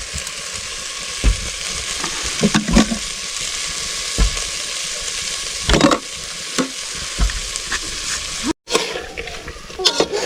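Food sizzling steadily as it fries in a pan, with a ladle or spoon scraping and knocking against the pan every second or so as it is stirred.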